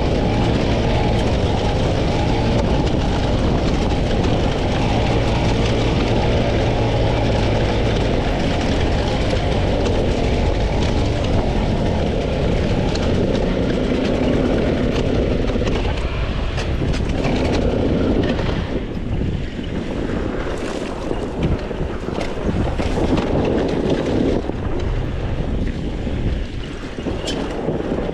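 300cc two-stroke dirt bike engine running on rough trail. It holds a steady pitch at first, then the revs rise and fall in short steps, with scattered sharp knocks and rattles over the engine in the second half.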